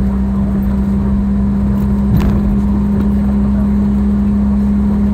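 Cabin noise inside a Boeing 717 from a seat near its rear-mounted Rolls-Royce BR715 engines: a steady engine drone with a constant low hum over a rumble. A faint click about two seconds in.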